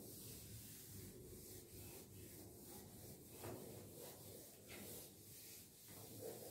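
Faint rubbing of a felt duster wiping chalk off a blackboard, in a series of sweeping strokes.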